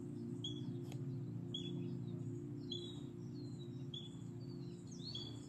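A songbird repeating a short high chirp about once a second, five times, over a steady low mechanical hum that fades near the end.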